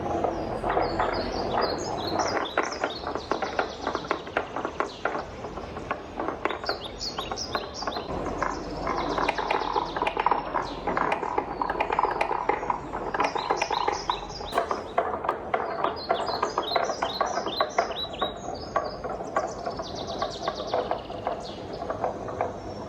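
Wooden balls rolling and clacking along a wooden marble run: a dense, continuous stream of knocks and clicks over a hollow ringing tone, with rapid runs of higher ticks.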